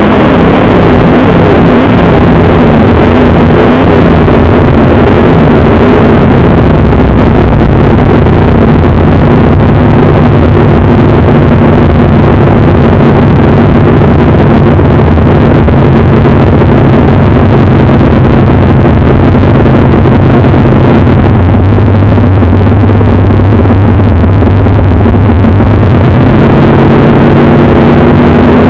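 1965 Mustang race car's engine running very loud under power. Its pitch steps down about 21 seconds in and climbs again near the end.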